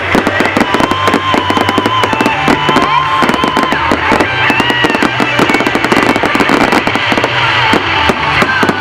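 Fireworks display: a dense, continuous run of bangs and crackles from many shells, with a few whistling glides, over music with a steady bass line.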